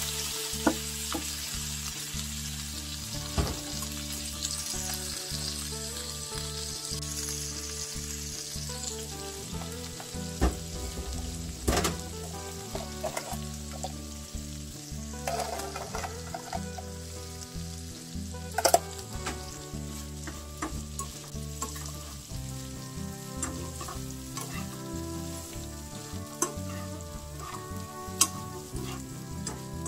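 Baby anchovies and shishito peppers sizzling as they stir-fry in a nonstick pan. A metal ladle and chopsticks knock against the pan several times as the mixture is stirred, with the sharpest knocks about 12 and 19 seconds in.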